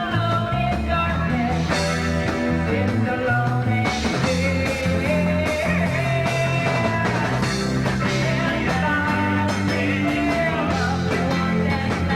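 Live rock band playing a song, full band with electric guitar, bass and drums, loud and continuous.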